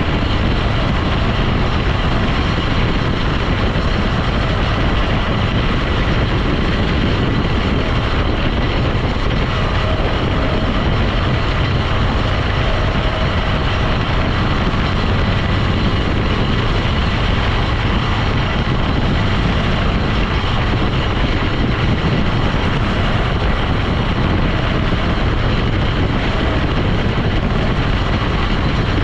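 A vehicle driving along: steady engine, road and wind noise that holds constant throughout.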